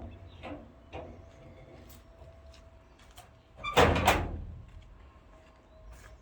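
A door banging shut: a few light knocks, then two loud knocks close together about four seconds in.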